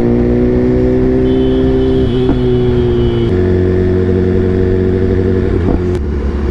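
Loud BMW superbike engine under way, its pitch slowly rising as it pulls, then stepping down a little past halfway and running on steadily.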